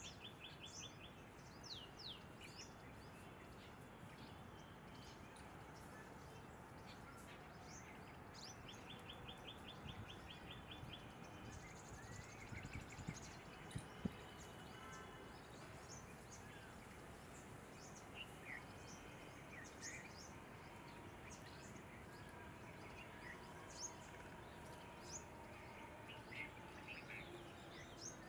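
Faint outdoor birdsong: several small birds chirping and calling, with a quick rapid trill twice. There are two brief soft knocks about halfway through.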